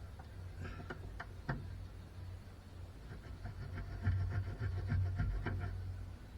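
Scattered light clicks and knocks over a steady low hum, with a denser run of light ticks in the second half.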